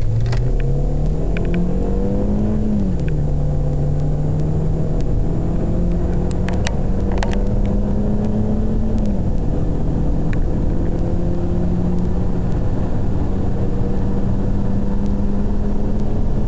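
Audi A4 engine accelerating hard through the gears, heard from inside the cabin. Its pitch rises, drops at a gear change about three seconds in, rises again, drops at a second shift about nine seconds in, then climbs slowly in the higher gear. A few light clicks come around six to seven seconds in.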